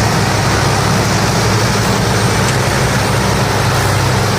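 Tractor engine running steadily at constant speed, a loud low drone that keeps the same pitch.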